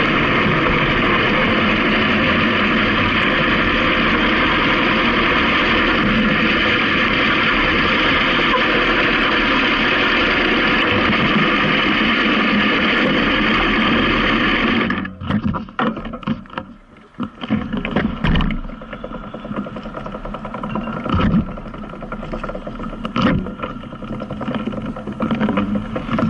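Motorcycle on the move: steady wind rush mixed with engine noise. About halfway through it cuts off abruptly, and irregular knocks and rustles follow over a quieter background.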